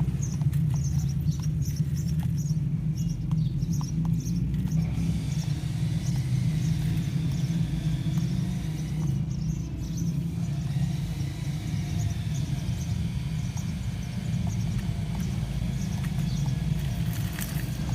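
Small electric motor of an RC model off-road truck whining, its pitch rising and falling with throttle, over a steady low rumble.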